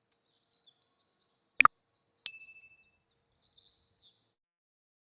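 Small birds chirping in short high calls, broken by two sharp clicks and then a single bright bell-like ding that rings and fades over about half a second, with more chirps after it.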